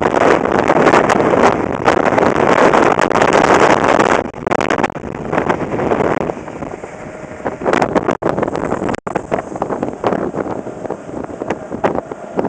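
Strong gusting wind, about 40 to 50 mph, buffeting the microphone. It is loudest over the first four seconds, then eases to a weaker, rougher rush, with two brief cut-outs near the middle.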